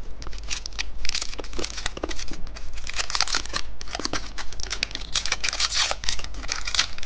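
Plastic candy wrapper being crinkled and torn open by hand: a steady run of dense, irregular crackles.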